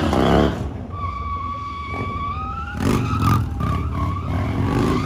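Motorcycle engine revving hard at the start, then running with a low rumble under a high, steady squeal for about two seconds. A short squeal rises and falls near the end.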